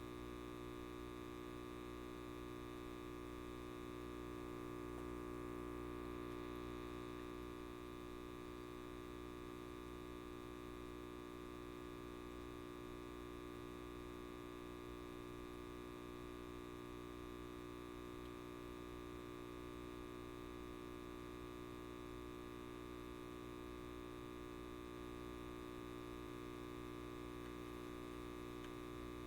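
Light bulb buzzing: a steady electrical hum made of many even tones, unchanging throughout.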